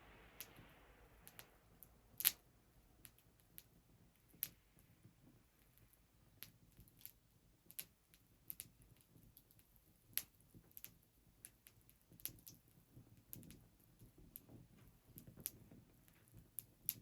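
Wood fire crackling: irregular sharp pops and snaps, the loudest about two seconds in, over a soft hiss that fades away in the first couple of seconds.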